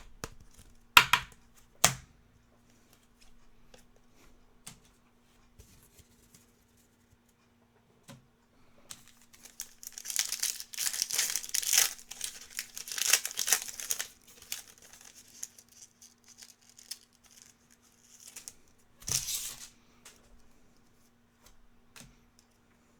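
A foil trading-card pack being torn open and its wrapper crinkled: a few sharp clicks, then about five seconds of tearing and crinkling in the middle, and a shorter rustle later.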